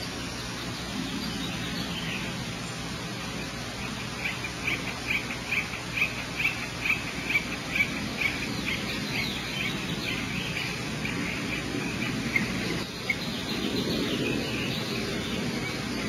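A bird giving a rapid series of short chirps, about two or three a second, for several seconds, over a steady low hum and hiss.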